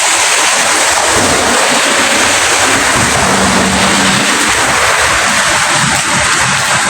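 Steady heavy rainfall, an even hiss of many drops, with a low rumble underneath.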